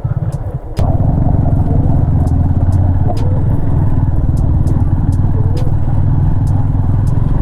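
Motorcycle riding on a rough, bumpy road: steady engine and wind noise heavy in the low end, with scattered sharp clicks and knocks as the bike rattles over the surface. The noise gets suddenly louder just under a second in.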